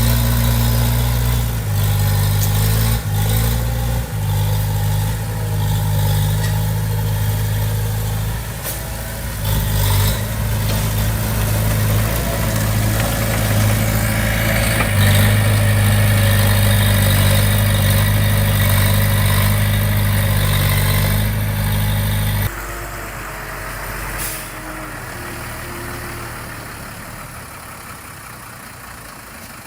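Diesel engine of heavy earthmoving equipment running steadily with a strong low hum. About three-quarters of the way through, the sound drops sharply and stays much quieter.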